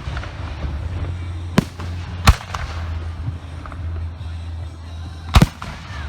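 Aerial fireworks shells bursting: sharp bangs about a second and a half and two seconds in, then a doubled bang near the end, over a steady low rumble.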